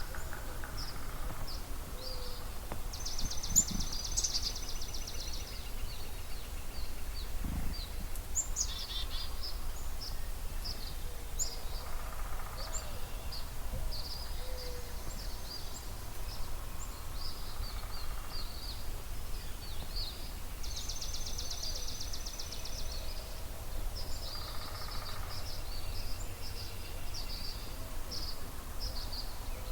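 Dawn chorus of songbirds: many short, high chirps throughout, with a rapid trill about three seconds in and again about twenty-one seconds in, over a low steady rumble.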